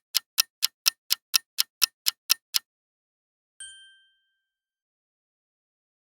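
Countdown-timer sound effect: quick clock-like ticks, about four a second, that stop about two and a half seconds in, followed a second later by a short bright ding.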